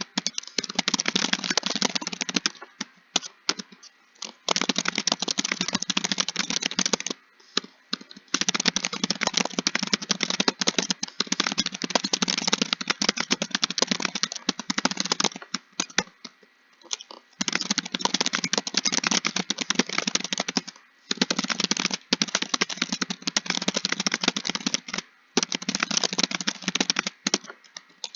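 Typing on a computer keyboard: fast, continuous runs of key clicks broken by several short pauses.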